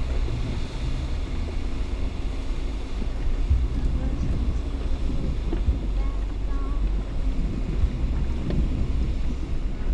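Jeep Gladiator crawling up a rocky off-road trail: a steady low rumble of engine and tyres on rock, with a few knocks from the rocks underneath and wind on the microphone.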